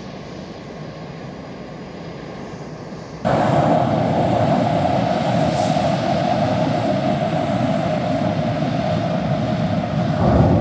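F/A-18 Hornet jet engine running at ground idle during a hot refuel, a steady rushing jet noise. It gets abruptly louder about three seconds in.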